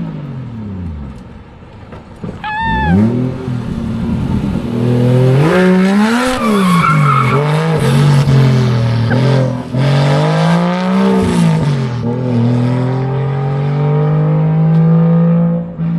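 A car drifting: the engine revs up and down again and again, with tyre squeal. There is a short squeal about two and a half seconds in, and more tyre noise around the middle.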